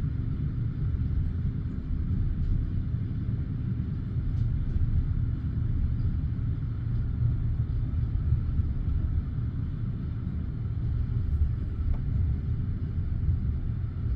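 Passenger train carriage running at speed between stations, heard from inside: a steady low rumble of the wheels and bogies on the track, with a faint tick now and then.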